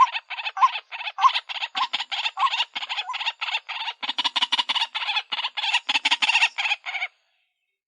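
White-breasted waterhen calling: a fast, unbroken run of short repeated notes, about five a second, that stops abruptly about seven seconds in.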